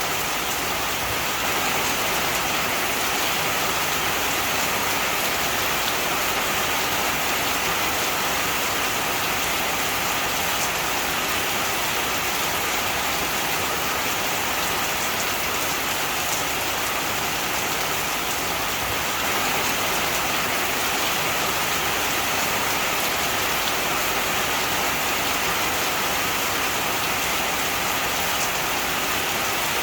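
Heavy rain falling steadily, an even, unbroken hiss of raindrops on surfaces.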